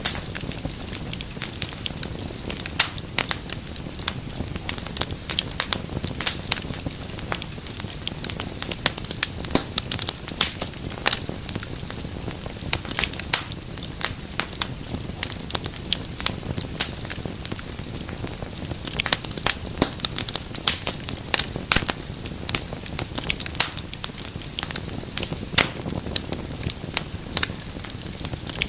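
Wood fire crackling in a fireplace: many irregular sharp pops and snaps over a low steady rumble of flames.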